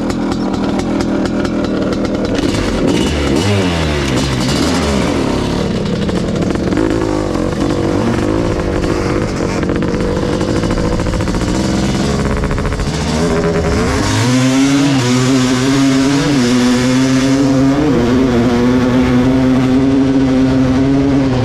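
Kawasaki KX500 two-stroke dirt bike engine with an FMF exhaust, revving up and down. About two-thirds of the way through it settles into a louder, steadier note with slight wobbles in pitch.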